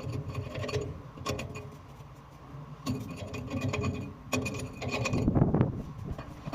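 Metal tools and hydrant fittings clinking and scraping in several short clusters over a steady low machinery hum.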